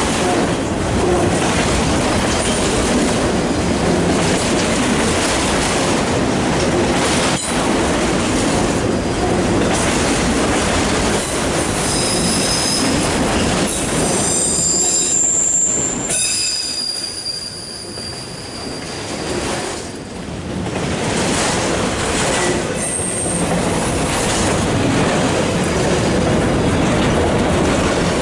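Loaded autorack cars of a CSX freight train rolling past, a loud steady noise of steel wheels on the rail. High-pitched wheel squeals come in about halfway through and again near the end.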